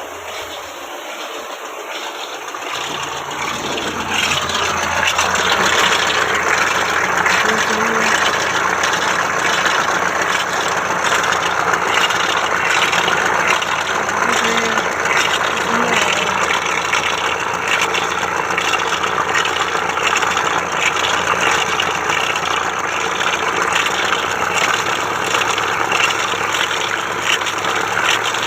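Tata Intra V30 pickup's diesel engine starting about three seconds in, then idling steadily, with a slight change in its note near the end. The truck has a low-oil-pressure fault.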